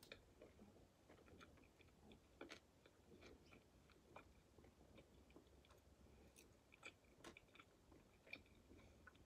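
Faint chewing of barbecue chicken wings, with scattered soft, irregular mouth clicks.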